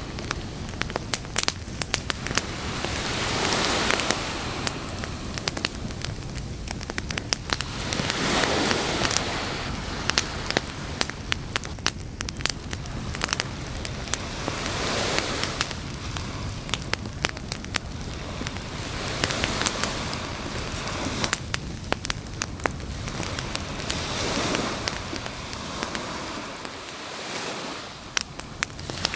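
Campfire crackling and popping with many sharp snaps, over broad swells of noise every four to five seconds, like surf washing on a beach.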